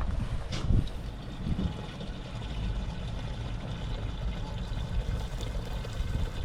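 Diesel being pumped into a fuel tank: a steady rush of fuel with a low mechanical hum underneath, and a couple of short knocks about half a second in.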